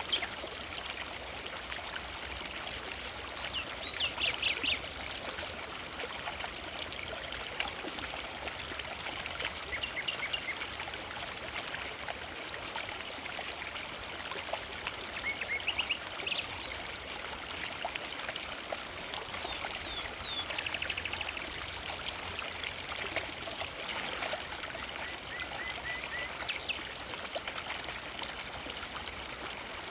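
A river flowing steadily, with short bursts of bird chirps now and then.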